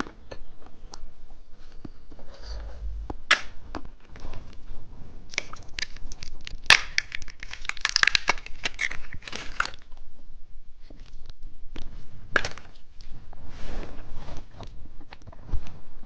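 Candy packaging crinkling and tearing open, with many sharp crackles and clicks that are densest about halfway through.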